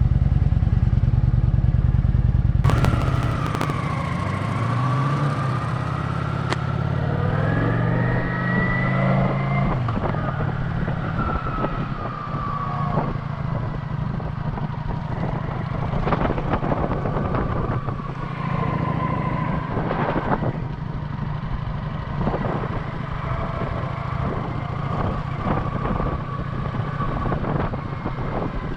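Kawasaki Vulcan 900 V-twin motorcycle engine running on the road, with wind on the microphone. A heavy low rumble eases about three seconds in, then the engine pitch climbs as the bike accelerates, and a few knocks sound later.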